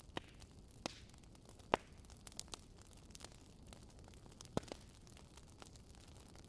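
Wood fire in a fireplace crackling: a handful of sharp snaps at irregular intervals, the loudest near two seconds in, over a faint steady hiss.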